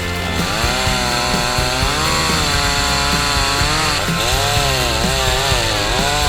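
Two-stroke chainsaw cutting wood, its engine pitch rising and falling as it loads up and revs through the cut.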